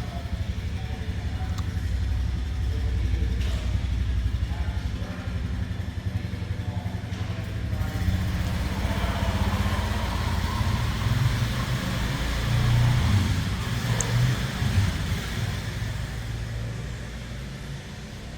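2005 Honda CR250R dirt bike's single-cylinder two-stroke engine running. It gets louder and more uneven in the middle, then settles back down near the end.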